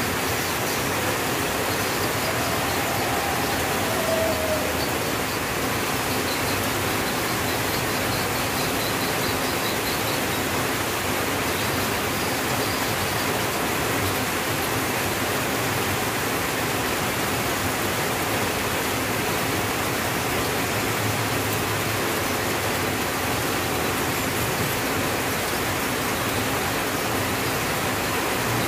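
Rain falling steadily on a tin roof, an even, unbroken hiss.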